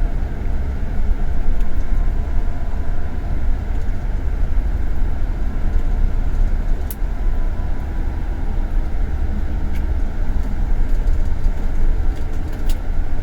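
Scania K410 coach travelling at speed: a steady, low rumble of engine and road noise, with a couple of faint clicks.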